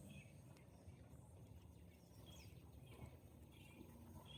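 Faint, scattered bird chirps, a few short calls spread through the quiet, over a low background rumble.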